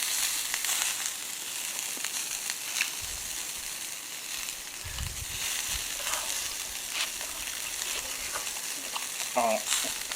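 Chicken yakitori skewers sizzling over charcoal on a fire-pit grill: a steady hiss with scattered crackles and pops.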